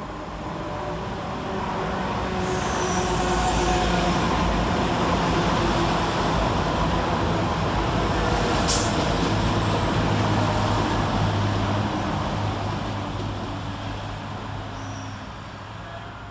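Two coupled Class 172 Turbostar diesel multiple units running past, with engine drone and wheel rumble. The sound builds over the first few seconds, holds, then fades away, with one sharp click about halfway through.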